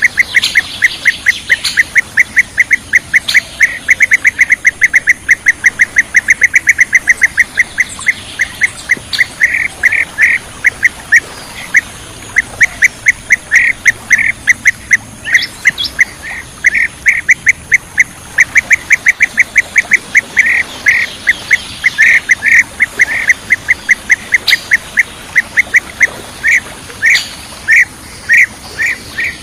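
Bee-eater (kirik-kirik) calling: short, clipped notes repeated over and over, closely packed at about four a second at first, then more spaced and irregular from about ten seconds in.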